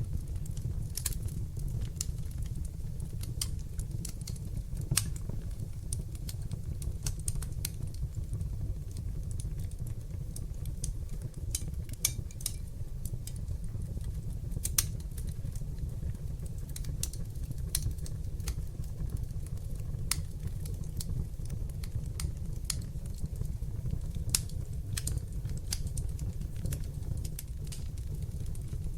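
Wood fire burning in a fireplace: a steady low rumble of flames with frequent irregular sharp crackles and pops, a few of them louder than the rest.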